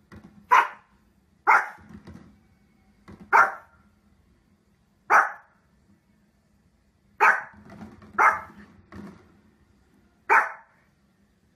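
Small fluffy spitz-type dog barking in single sharp barks, about seven loud ones spaced one to two seconds apart, with a few softer barks in between.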